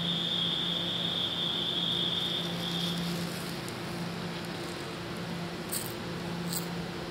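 TEMU2000 Puyuma tilting express train moving away along the far track: a steady high-pitched whine stops about three seconds in, over a low steady hum.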